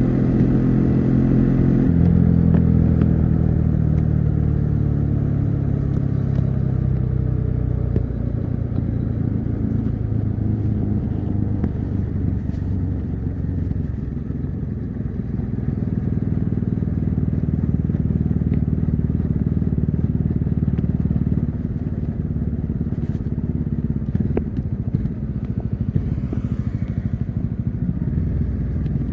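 Bajaj Dominar 400's single-cylinder engine heard from the riding position, its pitch dropping over the first several seconds as the revs fall, then running at lower, steadier revs with road and wind rumble. A few sharp clicks near the end.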